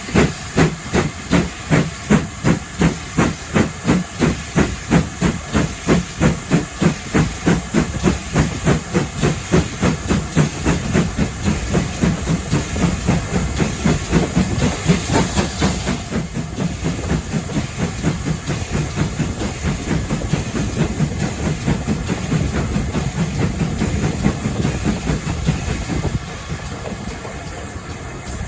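Steam locomotive working hard as it pulls away: its exhaust chuffs start about twice a second and quicken until they run together into a steady rush. A burst of hissing steam comes about halfway through, and the sound eases off near the end.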